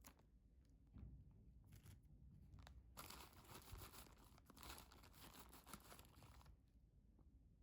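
Plastic bag crinkling and rustling while it is handled, strongest for about three and a half seconds from about three seconds in, with a few small clicks and taps before.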